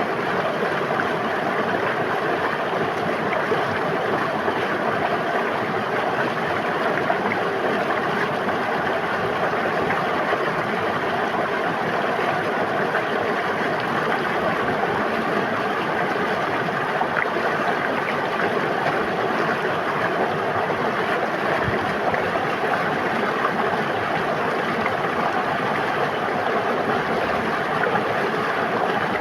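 River water flowing and splashing with a steady, unbroken rush.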